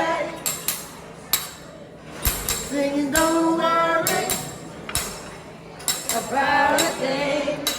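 Live singing, with sharp clinking percussion strikes coming at irregular intervals.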